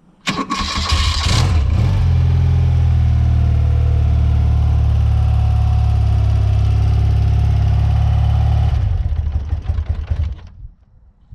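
BMW R100RS's air-cooled flat-twin (boxer) engine starting with a brief burst of noise, then running at a steady idle for about seven seconds before it is switched off and dies away near the end.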